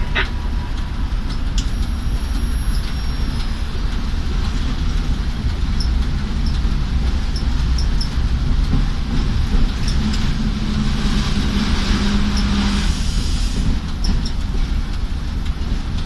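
ChME3 diesel shunting locomotive's six-cylinder engine running during shunting, a steady low rumble. A hum and hiss swell about ten seconds in and drop away around thirteen seconds.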